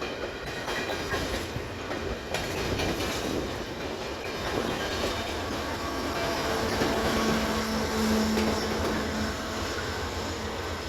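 Empty coal train's freight cars rolling past, wheels clacking steadily over the rail joints. A steady low hum rises out of the rolling noise for about three seconds past the middle, the loudest part.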